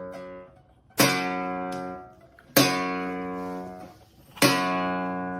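Music: guitar chords, each strummed once and left to ring and fade, three of them spaced a second or two apart.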